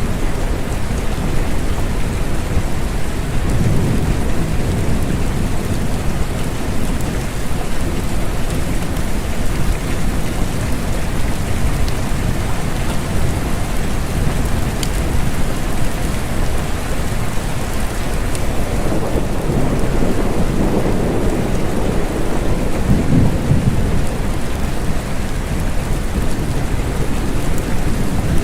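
Steady rain falling, with low rolls of thunder swelling up a few times.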